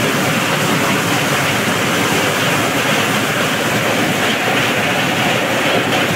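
Motorized corn sheller running steadily while shelling maize cobs into loose kernels, a loud, dense, unbroken rattling din.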